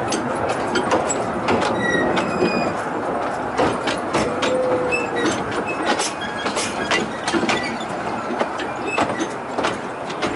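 Miniature railway train running along the track, heard from aboard a carriage: a steady rumble of wheels on rail with many irregular clicks over the rail joints and a few brief wheel squeals.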